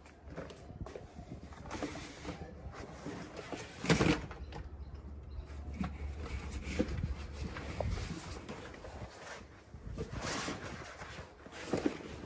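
Rubber pond liner being handled and spread out over the dug pond hole: scattered rustles, scrapes and dull thumps at an irregular pace, the loudest about four seconds in.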